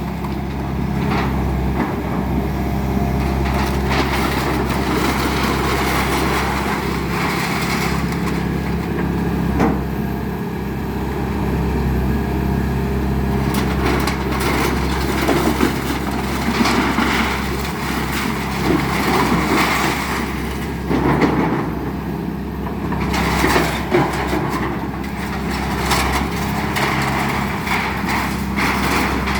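Excavator engine running steadily under load while wood is crushed and splintered in irregular cracks and crunches, as in a house being torn down.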